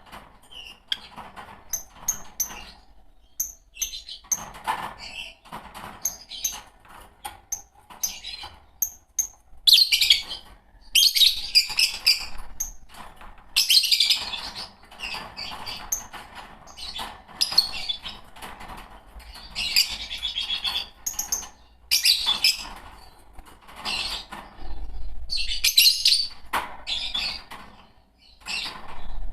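Fischer's lovebirds chirping and chattering: short sharp chirps at first, then from about ten seconds in, loud bursts of shrill chatter about every two seconds.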